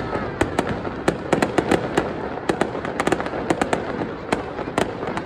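Fireworks display: a rapid, irregular run of bangs and crackles from bursting shells, several a second, over a continuous rumbling haze.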